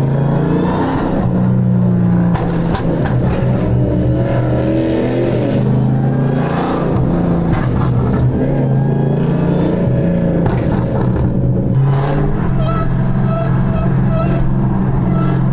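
Dodge Hellcat V8 engine and exhaust running loud and steady, rising and falling in pitch several times as it is revved.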